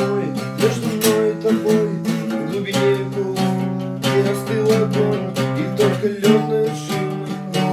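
Acoustic guitar strummed in a steady chord pattern.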